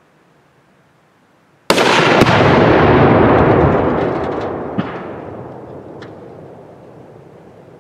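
A 2-pound charge of Tannerite binary explosive, set off by a rifle shot inside an old clothes dryer, detonates about two seconds in with a sudden, very loud boom. The boom rolls on as a long rumble that dies away slowly over several seconds, with a few sharp cracks in the tail.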